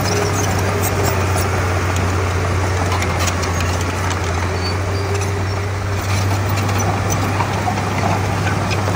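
Komatsu D31P crawler bulldozer's diesel engine running at a steady pitch, with scattered light clicks and clanks over the engine.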